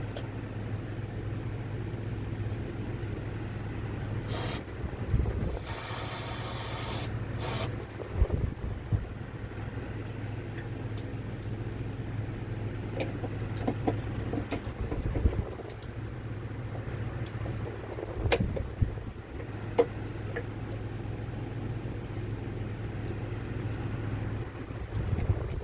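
Aerosol can of starting fluid sprayed in a short hiss, then a longer hiss of about a second and a half and another short one, over a steady low hum. Scattered clicks and knocks follow.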